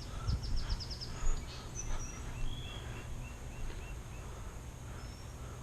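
Songbirds calling: a quick run of about eight high notes in the first second, then a string of short repeated chirps, over a low outdoor rumble of wind or handling noise.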